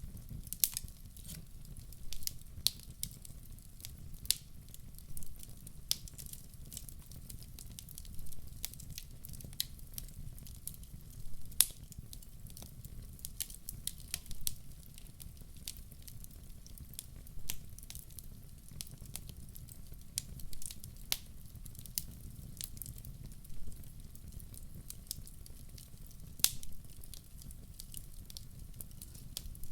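Logs burning in a fireplace, crackling and popping at irregular intervals over a low, steady rumble of the flames.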